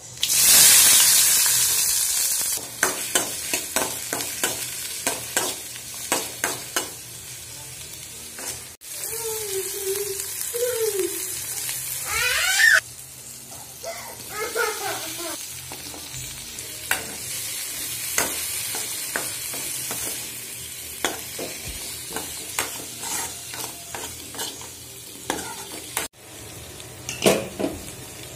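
Food frying in hot oil in a stainless steel pan: a loud sizzle as ingredients go into the oil at the start, then steady frying with many clicks and scrapes of a steel spoon stirring onion, tomato and okra against the pan.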